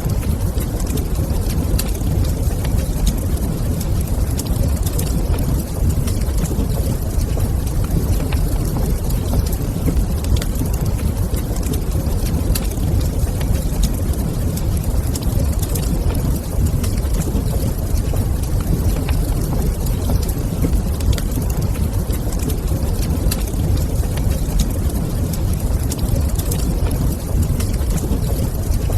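Wood fire burning in a stone fireplace: a steady low rumble with small crackles and pops scattered throughout.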